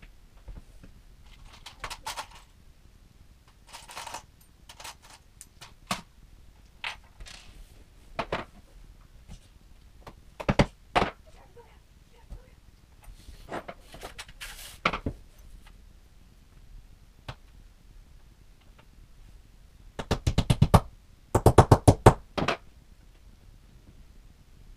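Scattered knocks and thuds of wooden bookcase parts being handled and fitted together during assembly, with two quick runs of rapid knocking near the end.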